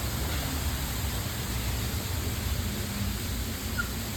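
Steady rushing noise with a low, unsteady rumble underneath and no distinct events.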